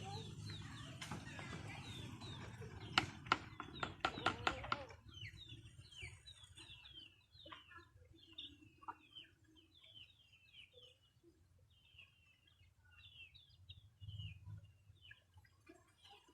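Chickens clucking, with many short, high chirping calls through most of it. A quick run of sharp knocks comes about three to four and a half seconds in.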